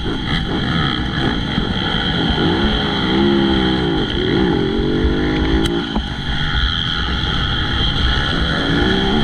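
MX2 motocross bike engine running hard, its revs rising and falling again and again as the throttle is worked, over a steady low rumble.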